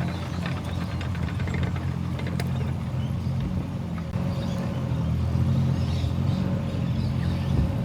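An engine idling steadily at a low, even pitch.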